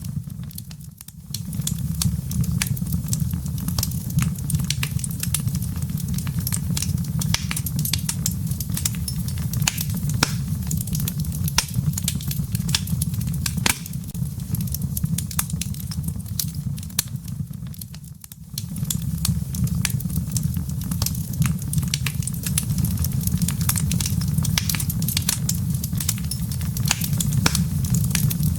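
Wood fire in a fireplace crackling: many sharp pops and clicks from burning wood and embers over a steady low rumble. The rumble drops away briefly about a second in and again about 18 seconds in.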